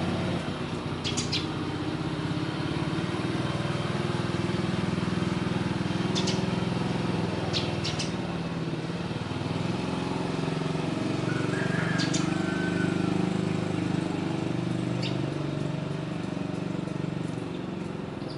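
A motor engine running steadily, its low hum wavering slightly in pitch, with a few short, high bird chirps scattered over it.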